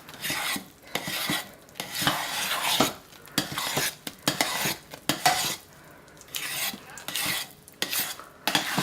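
Thick hot-process soap being stirred in a slow cooker's insert, the utensil scraping and knocking against the pot in repeated strokes about once a second.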